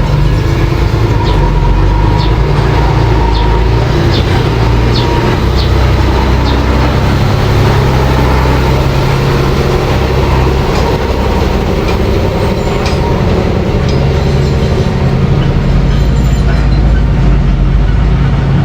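Mini bulldozer engine running steadily with a deep rumble, with short metallic clinks and squeaks from its tracks during the first few seconds.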